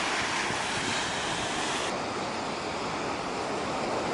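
Pacific surf breaking on the beach, a steady rush of waves.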